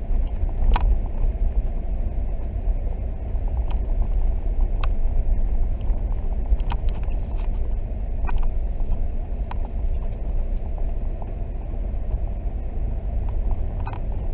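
Car driving on a snow-covered road, heard from inside the cabin: a steady low rumble of tyres and engine, with a few faint clicks scattered through.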